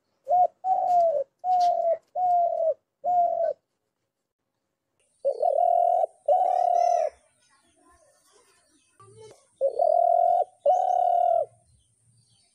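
Dove cooing: a quick run of five low coos, then after a pause two longer coos, and after another pause two more.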